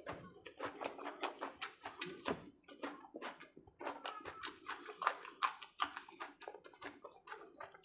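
Close-miked mouth sounds of eating: wet chewing, lip smacking and crunching in quick irregular clicks as a man eats curry-soaked khichdi by hand and bites into a raw green chilli.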